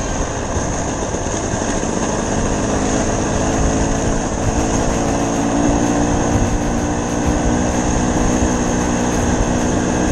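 Dirt bike engine running steadily while riding, under a continuous rush of noise.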